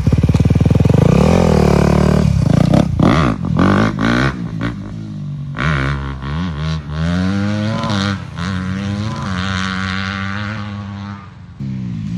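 Dirt bike engine revving hard, its pitch climbing and dropping several times as it is run through the gears. It eases off briefly near the end.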